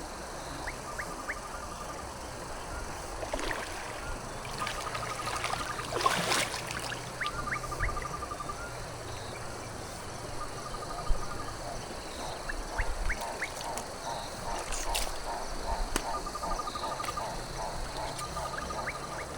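Outdoor nature ambience: a small animal's short call, a few quick rising notes followed by a brief trill, repeats every few seconds over a steady high hiss. A brief louder noise comes about six seconds in.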